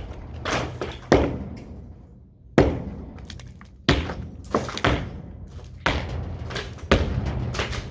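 Irregular heavy hammer blows on masonry, about eight in all, each followed by crumbling debris, over a steady low hum: a wall being broken through.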